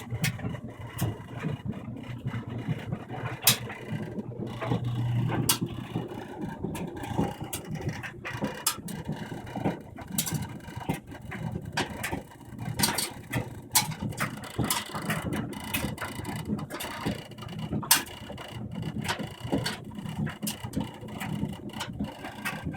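Samsung-built Kenmore clothes dryer running with a low rumble and irregular sharp clicking and knocking. This is the fault noise that starts 15–25 minutes into the cycle and stops for a while only when the dryer is shaken; a service technician called it normal.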